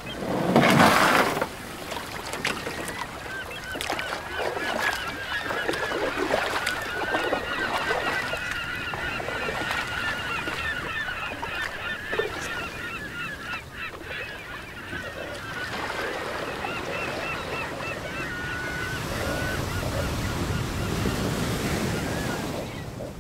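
Seaside ambience: a flock of birds calling again and again in short honking calls over the wash of surf. There is a loud rush about a second in, and the surf swells near the end.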